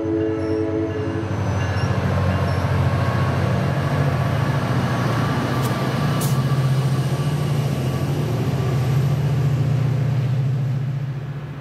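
SunRail commuter train passing, its diesel locomotive pushing at the rear: a held horn chord cuts off about a second in, then the locomotive engine gives a steady low rumble over the rolling coaches, dropping away near the end as the train moves off.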